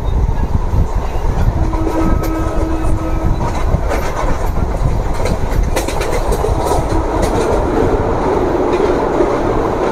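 ICF-built MEMU electric train running at speed, heard from beside an open coach window: a steady rumble of wheels on rail with wind on the microphone, and wheels clicking over rail joints.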